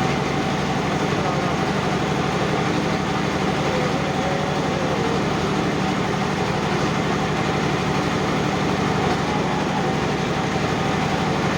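Boat engine running steadily, a constant low, evenly pulsing drone.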